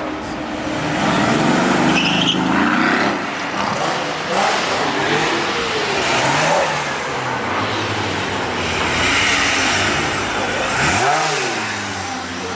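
Car engine revving repeatedly, its pitch climbing and dropping in about five swells, the sharpest one near the end.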